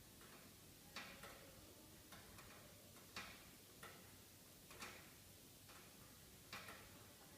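Wood fire in a fireplace crackling faintly: sharp pops and snaps at irregular intervals, some in quick pairs, over a soft steady hiss.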